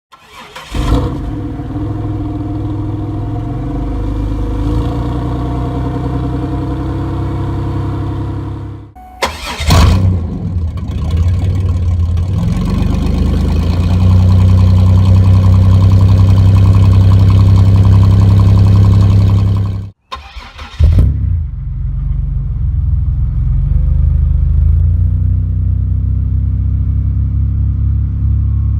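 Supercharged 3.8-litre V6 of a 2004 Pontiac Grand Prix GTP heard through its exhaust. It starts and idles, is revved about ten seconds in, then held at a higher steady speed for several seconds. After a short break it is revved once more and settles back to a steady idle.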